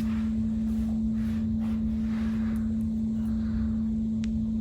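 A steady machine hum holding one pitch, with a low rumble beneath it and a faint tick about four seconds in.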